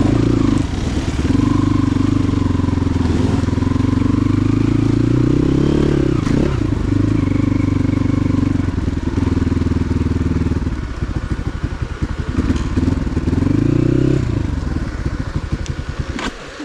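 Motorcycle engine running loud, its pitch rising and falling with the throttle. The engine note drops away near the end.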